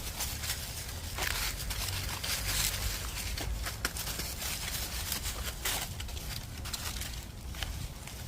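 Scuffing footsteps and rustling, with irregular short clicks over a steady low rumble.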